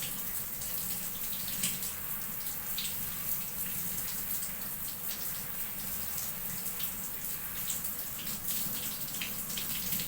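Water running steadily from a shower onto a cockatiel being bathed, with small irregular splashes throughout.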